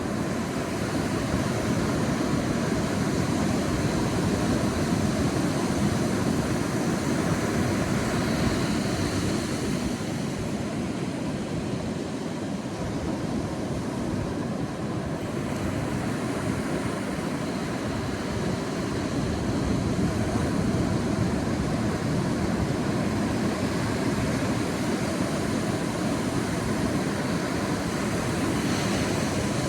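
Sea waves breaking and washing onto a beach: a steady surf wash with a low rumble, swelling and easing slowly every several seconds.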